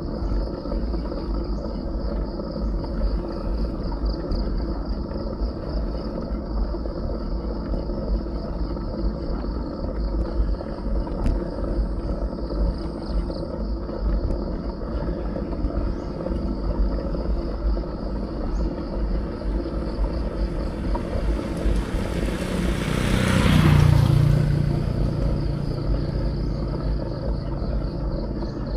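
Low wind and road rumble on a bicycle-mounted action camera, over a steady pulsing chorus of insects. About 23 seconds in, a motor vehicle passes, swelling and then fading.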